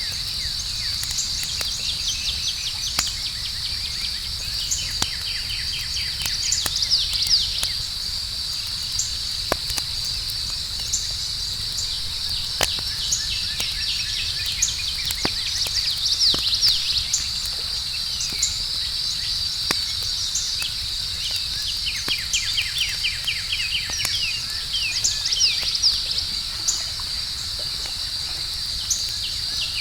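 Outdoor campfire crackling with scattered sharp pops and a low rumble, under a steady high chirring of crickets and other insects. Runs of quick chirps come and go every few seconds.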